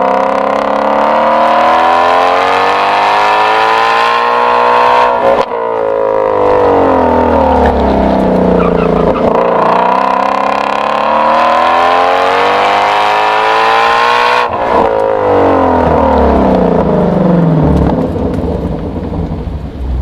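2016 Shelby GT350's 5.2-litre flat-plane-crank V8 exhaust under hard acceleration, its pitch climbing for about five seconds and then breaking off sharply as the throttle is lifted. The pitch then falls for a few seconds and climbs again, breaking off once more about fourteen seconds in before winding down. This is the engine working between the corners of an autocross run.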